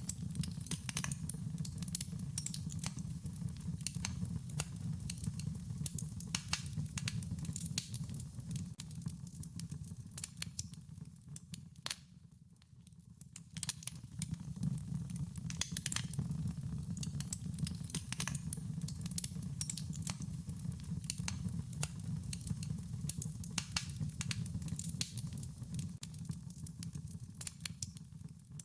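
Campfire crackling, with frequent sharp irregular pops and snaps over a steady low rumble of burning. It eases off briefly about twelve seconds in.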